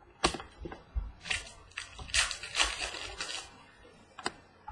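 Trading cards being handled and flipped through: rustling and sliding of card stock, with a few sharp taps.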